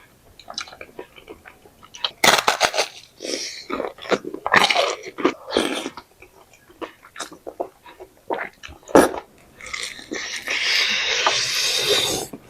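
Close-miked eating: crunchy bites and wet chewing of fried cireng and spicy noodles, in short irregular crackles. Near the end comes a steadier noisy stretch lasting about two seconds.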